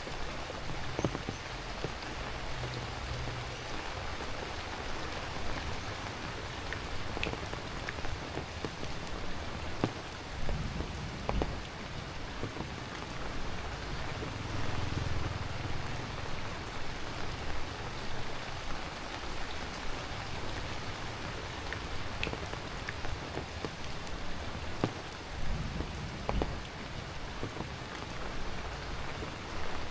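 Heavy rain falling steadily, with scattered louder drops striking close by.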